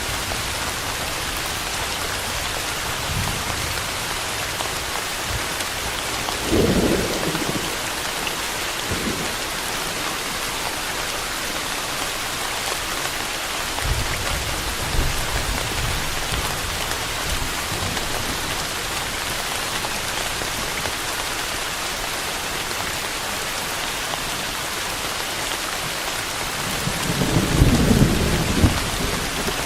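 Steady rain falling, with low rolls of thunder three times: a short one about a quarter of the way in, a fainter one near the middle, and the loudest near the end.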